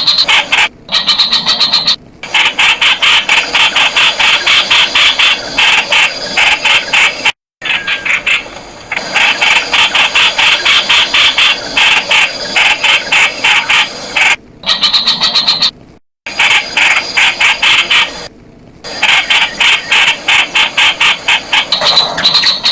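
Streak-eared bulbul calling: rapid runs of short, sharp notes, broken a few times by sudden gaps of silence.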